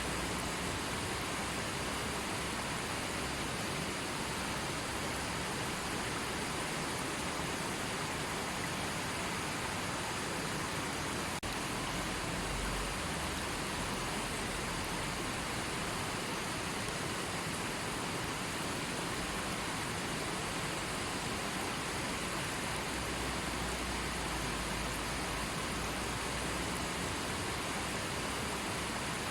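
River water flowing and rushing steadily, an even continuous wash of water noise.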